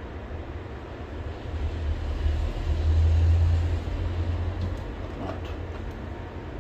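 A deep low rumble that swells to a peak about three seconds in and then fades away, over a steady background hum and hiss, with a few faint clicks near the end.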